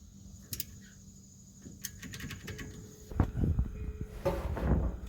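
Hand tools on exhaust manifold bolts: a few sharp metallic clicks, then a louder irregular stretch of knocks and clunks from about three seconds in as the wrench works the rusty bolts.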